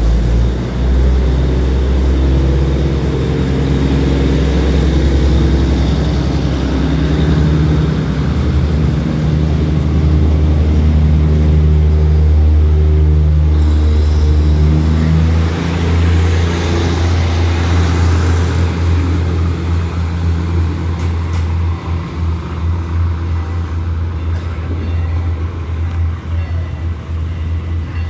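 Diesel multiple-unit passenger train pulling out and passing close by, its underfloor diesel engines running under load with a deep steady drone. About halfway through, a rush of wheel and rail noise rises as the cars go past, and the sound then eases off.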